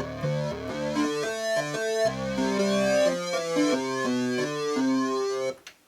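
Roland JX-3P polyphonic synthesizer with the Kiwi-3P upgrade playing a run of sustained chords, with a sweeping, bright upper tone over them. The notes cut off sharply near the end.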